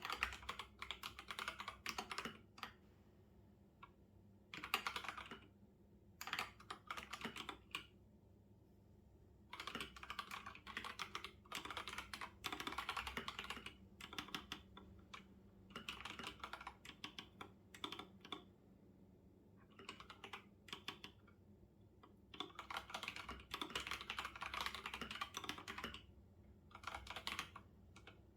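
Typing on a computer keyboard: quick runs of key clicks in bursts of a second or several, broken by short pauses.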